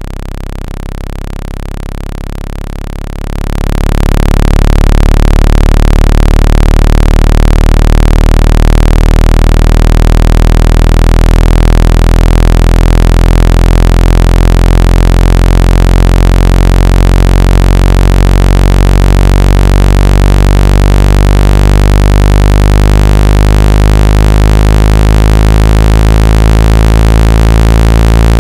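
Speaker water-ejection tone, meant to vibrate water out of a phone or earphone speaker: a loud, low, buzzy electronic tone. It jumps louder about three and a half seconds in, then holds steady with a slow wavering.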